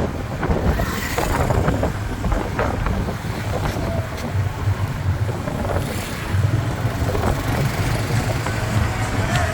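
Riding on a motorbike through traffic: steady engine and road rumble with wind on the microphone.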